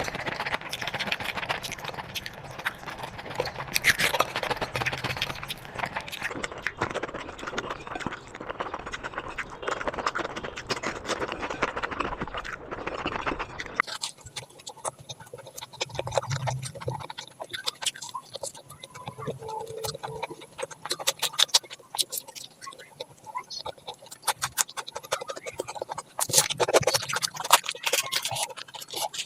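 Close-miked eating sounds: chewing and wet mouth clicks. About halfway through it cuts abruptly to a different, quieter recording of eating with sharper, sparser clicks.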